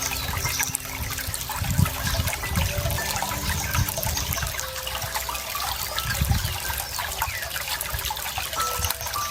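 Running water trickling and splashing steadily, as in a small stream, with low gurgling surges now and then.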